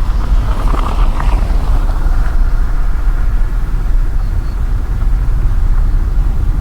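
Car cabin sound while driving: a steady low rumble of engine and tyres on the road. A brief swell of higher hiss comes about a second in.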